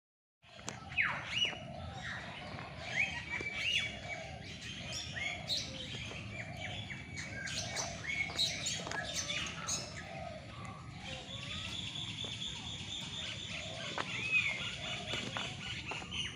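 A mixed chorus of many birds calling in an aviary: overlapping chirps, whistles rising and falling in pitch, and squawks. About two-thirds of the way through, a steady buzzy trill joins them.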